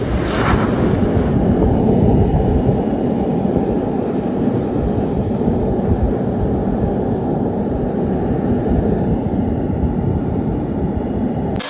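A loud, steady, muffled rumbling noise with almost nothing above the low range; it cuts off abruptly near the end.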